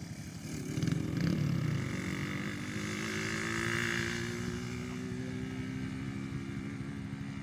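Small gasoline engine of a kids' go-kart or dirt bike running at a steady speed, swelling a little louder around the middle before easing off.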